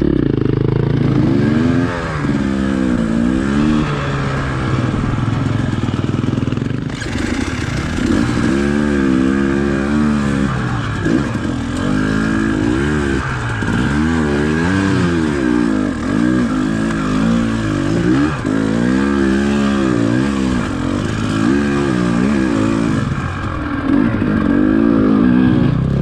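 Dirt bike engine running under load, its pitch rising and falling every second or two as the throttle is opened and closed while riding trail, with wind noise on the microphone.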